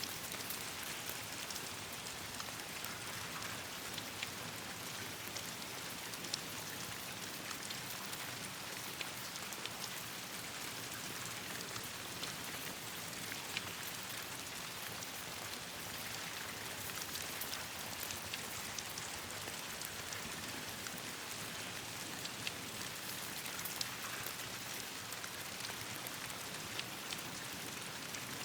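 Steady rain falling on leaves and ground, an even hiss scattered with sharp ticks and pops.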